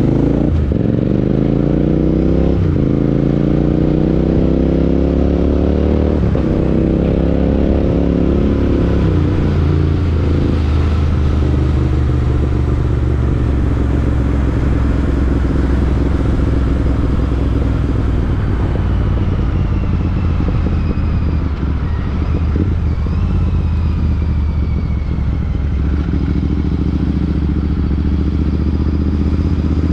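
Royal Enfield Interceptor 650's parallel-twin engine through an aftermarket Chris Michael exhaust, accelerating hard through the gears with two upshifts in the first nine seconds, each a drop in pitch before it climbs again. It then settles to a steady cruise at an even engine speed.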